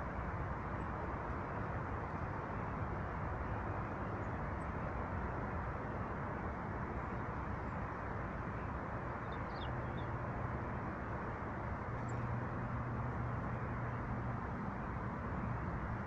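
Steady low outdoor background rumble with a low hum that grows louder about ten seconds in, and a few faint, short high bird chirps.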